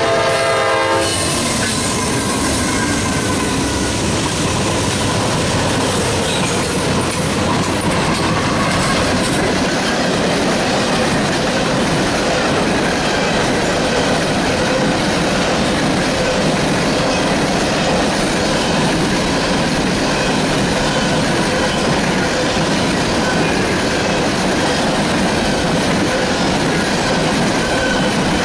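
Norfolk Southern freight train passing close by: the lead GE diesel locomotive's horn chord cuts off about a second in, then the locomotives and a long string of hopper cars roll past with steady wheel clatter on the rail joints and a faint wheel squeal at times.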